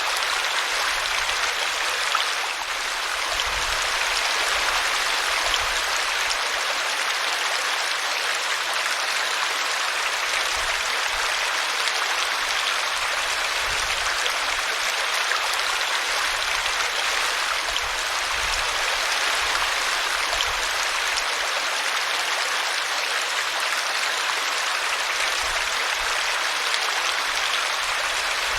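Small brook babbling steadily as its water runs over a tree root.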